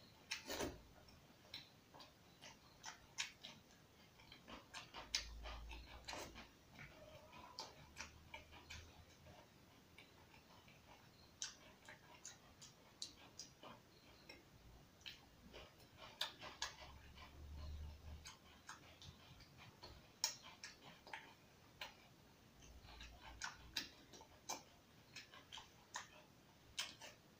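Close-up eating sounds of someone eating rice by hand: soft, irregular mouth clicks and smacks of chewing, with several clicks a second at times.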